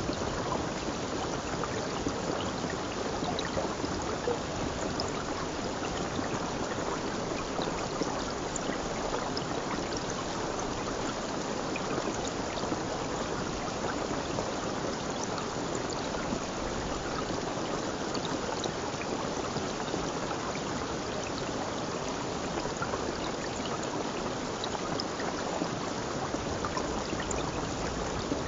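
Stream water flowing and trickling steadily, an even rushing wash with small splashes scattered through it.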